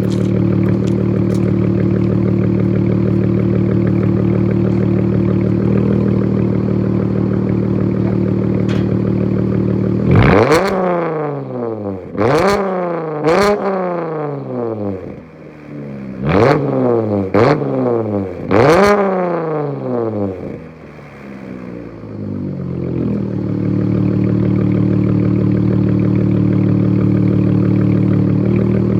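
2014 Dodge Challenger SXT's 3.6-litre V6 idling through freshly fitted 4-inch quad exhaust tips. About ten seconds in it is blipped six times in quick succession, each rev shooting up and falling straight back, before it settles into a steady idle again.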